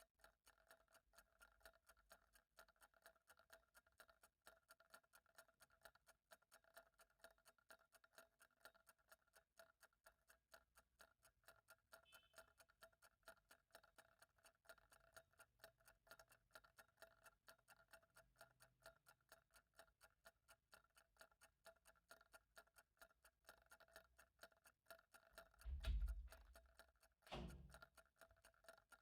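A clock ticking faintly and steadily. Two dull thumps sound near the end.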